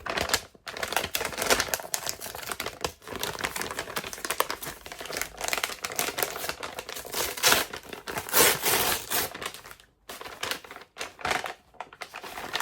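Crinkly wrapping being handled and crumpled: a dense, continuous crackle with a short pause about ten seconds in.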